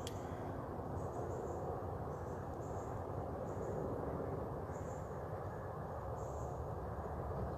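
Insects, likely crickets, calling in short high buzzes every second or so over a steady low background hum, with a brief click at the start.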